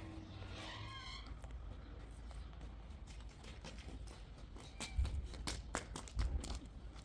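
A short wavering animal cry near the start, then a run of clicks and knocks with two heavier thumps about five and six seconds in.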